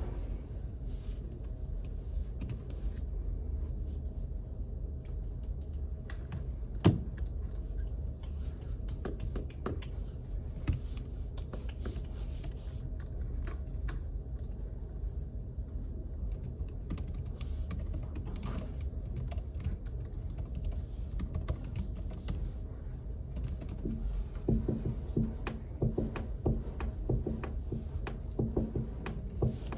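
Typing on a computer keyboard in irregular spells of key clicks, quickening near the end, over a steady low hum.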